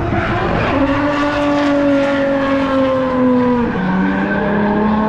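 A car's engine running at high revs on a race track. The pitch holds high and sinks slowly, then drops sharply about three and a half seconds in and holds steady at the lower note.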